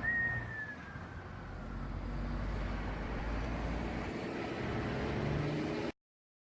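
Road vehicle and traffic noise with a steady low rumble, and a short high squeal right at the start that slides slightly down in pitch. The sound cuts off suddenly near the end.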